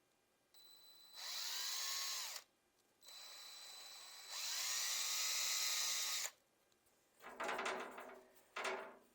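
Power drill boring a pilot hole into bookcase wood, so that the screw doesn't split it. The drill runs in two bursts, each starting as a light whine and growing louder as the bit cuts in, and is followed near the end by two short rough noises.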